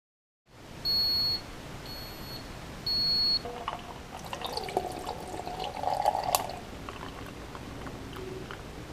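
Three short, high electronic beeps about a second apart, then a few seconds of watery sloshing with small clicks.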